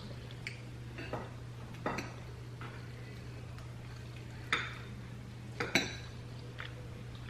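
Cutlery clinking and scraping against dishes while eating: about half a dozen light, separate knocks, the sharpest two in the second half, over a steady low hum.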